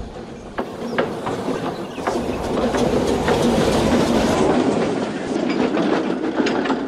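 Train running on rails, its wheels clicking over the rail joints, growing louder over the first few seconds and then holding steady.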